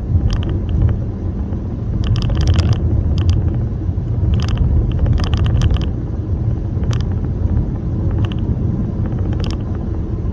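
Road and engine noise inside a moving car's cabin: a steady low rumble, with scattered light clicks and rattles throughout.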